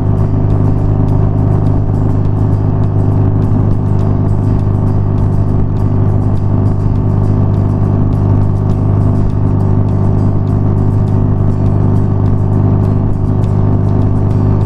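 BMW R nineT's air/oil-cooled boxer-twin engine running at a steady speed while the bike cruises, a loud, even drone with no revving.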